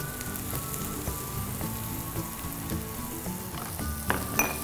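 Chopped spring onion stems sizzling in melted butter in a frying pan, over soft background music. A couple of sharp knocks of a wooden spatula against the pan come near the end as the onions are stirred.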